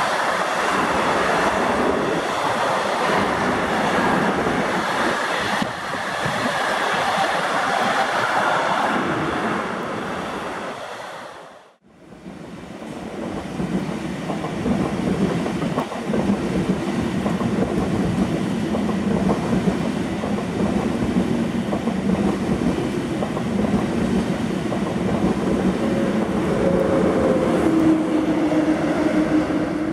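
Container freight train rolling past, its wagons running over the rails; the sound fades and cuts off about twelve seconds in. Then an ICE high-speed train passing, with a steady hum of tones that grows louder near the end.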